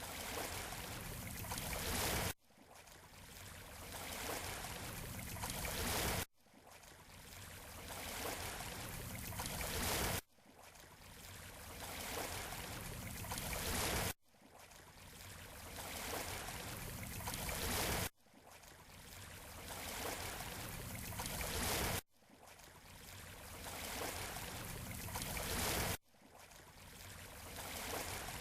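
Surf washing on a beach shoreline, a clip of about four seconds played as a loop. Each pass swells steadily and then cuts off abruptly, seven times in a row.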